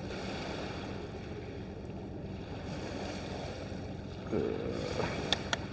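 Steady wind buffeting the microphone over the wash of sea surf on the shore, with a few faint clicks near the end.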